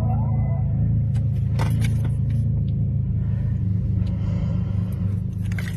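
Supercar engine idling after a cold start, a steady deep rumble, with a few light clicks about a second in and again near the end.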